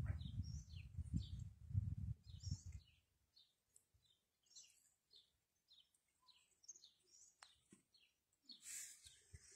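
A small bird chirping over and over, short high chirps about two or three a second. A low rumble of noise at the start dies away after about three seconds.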